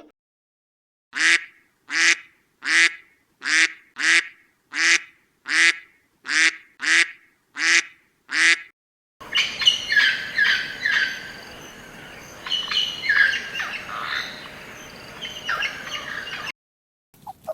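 Bird calls, in two scenes: about eleven short, harsh calls evenly spaced a little under a second apart, then a hard cut to several birds calling over one another above a steady background hiss.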